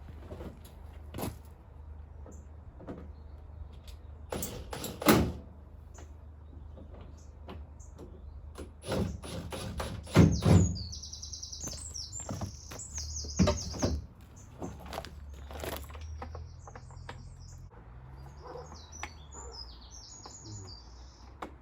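Scattered knocks and clunks of a plastic van bumper and lamp being fitted back on, the loudest about five, ten and thirteen seconds in. Birds chirp in quick high twitters through the second half.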